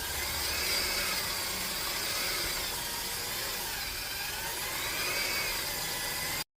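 Corded electric paddle mixer running slowly in a bucket of thick, chunky driveway sealer, a steady hum with a faint whine that wavers a little in pitch. It cuts off abruptly near the end.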